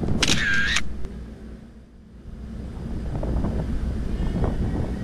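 Low, steady rumble of city traffic, with a brief high squeak near the start and the sound fading down and back up about two seconds in.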